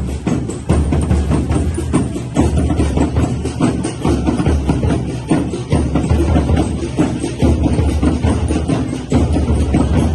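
Percussion-led music: drums with tambourine-like jingles and clacks, beating a steady, driving rhythm.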